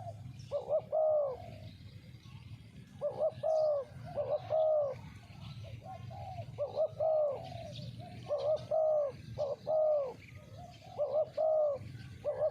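Spotted dove cooing: a phrase of a few arched, falling coo notes about every two seconds.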